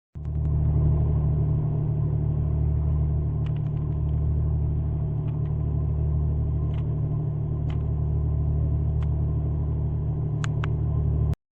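Tour boat's engine running steadily with a low, even drone, with a few faint ticks over it.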